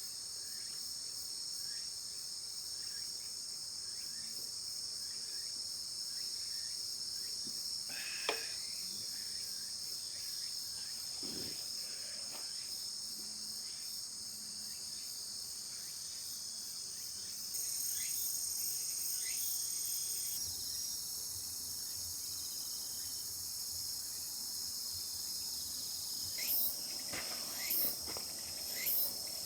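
Crickets and other insects chirping steadily in several high, even bands, briefly louder about two-thirds of the way in. Now and then a short sharp snap cuts through, a couple in the first half and several close together near the end.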